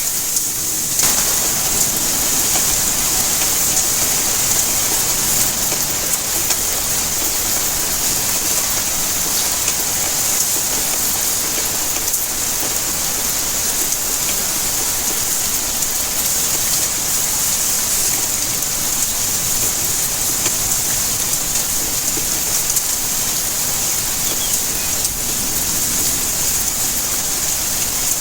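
Steady rainfall: an even hiss with the most energy high up. A fuller, lower layer of rain noise comes in about a second in.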